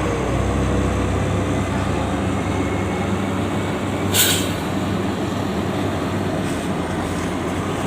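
Heavy truck diesel engines running steadily with a low hum while driving off a ferry, with a short, sharp air-brake hiss about four seconds in.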